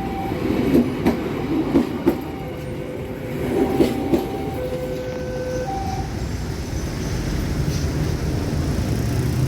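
Passenger train rolling past, its wheels clicking over rail joints in pairs, with brief high ringing tones from the wheels or rails. The clicks stop after about six seconds and leave a steady rumble.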